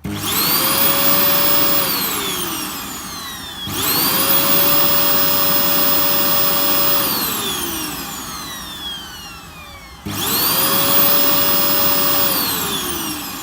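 Hoover Dust Manager vacuum cleaner's motor switched on three times, running without its filters. Each time it climbs quickly to a steady high whine, runs for a couple of seconds, then winds down with a falling whine.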